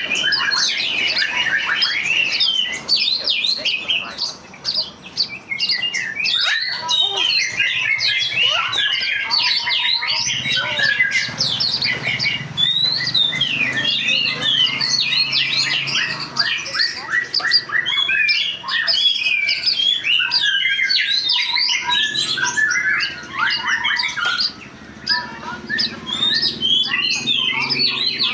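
Many birds chirping and squawking at once in a dense, continuous chorus of short, quick whistles and harsh calls.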